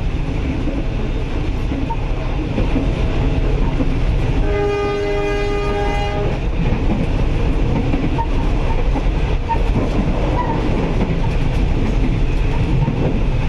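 Passenger train running, a steady rumble with wheels clattering on the rails, heard from inside a coach. A train horn sounds once, a single steady chord lasting about a second and a half, about four and a half seconds in.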